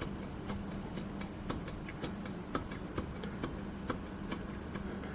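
A Renault Duster's front brake caliper knocking with short metallic clicks, about two a second, as it is rocked back and forth by hand on its guide pins. The play shows looseness against the steering knuckle, which the owner puts down to a worn rubber guide-pin bushing.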